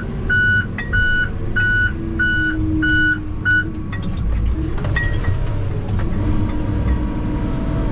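Logging machine's backup alarm beeping seven times, about two beeps a second, over its diesel engine running steadily; the beeping stops about four seconds in while the engine keeps running, with a low thump shortly after.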